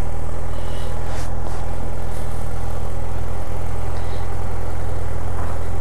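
Motorcycle engine running steadily at low speed with an even, low note, as the bike rolls slowly along.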